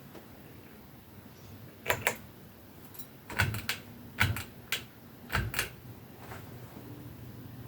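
A series of sharp clicks, several in quick pairs or triplets. Near the end a low steady hum begins, as the Westinghouse Swirl ceiling fan's motor starts up.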